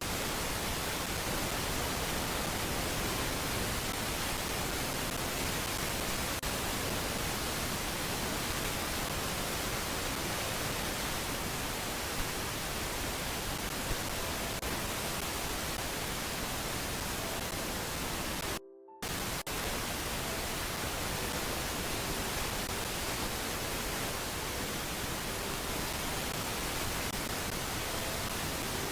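Steady static-like hiss with no distinct events; it cuts out completely for a moment about two-thirds of the way through.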